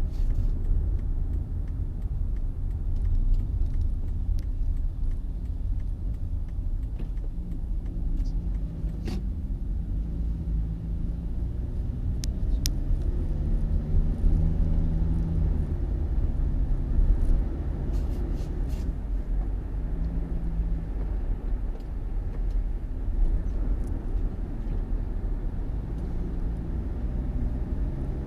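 Motor vehicle running with a steady low rumble and a wavering engine note, with a few sharp clicks.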